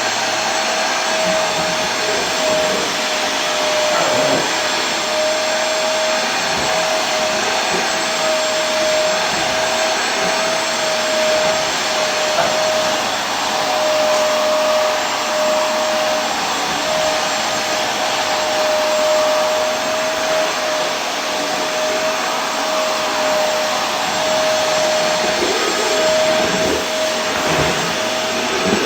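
Vacuum cleaner running continuously: a steady rush of air with a constant motor whine that wavers slightly in pitch.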